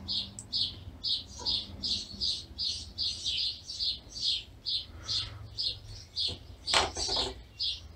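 A small bird chirping over and over in a steady run of short, high chirps, two to three a second.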